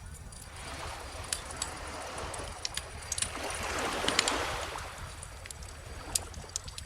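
Wood bonfire crackling with frequent sharp pops, over an ocean wave that swells in, peaks about four seconds in, and washes back out, with a low steady rumble of surf beneath.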